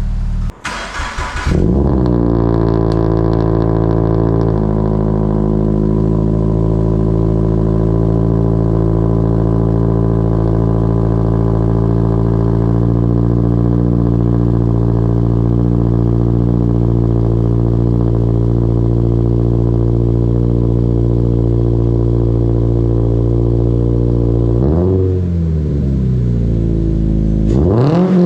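Car engine breathing through an RKTI aftermarket exhaust: it is cranked by the starter and catches about a second and a half in, then settles into a steady idle. Near the end the throttle is blipped twice, each rev rising and falling quickly.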